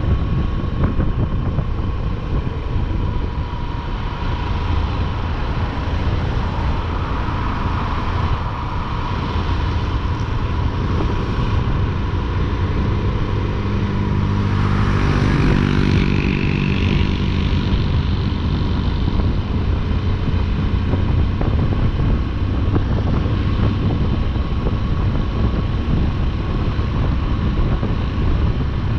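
Motorcycle on the move, its engine running under a steady rumble of wind and road noise. About halfway through, an engine note swells and rises in pitch for a few seconds.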